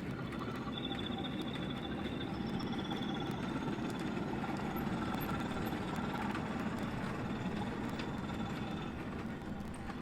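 Wind rumbling on the microphone, with a 5-inch gauge electric model locomotive running on the track and a thin, steady high whine over the rumble.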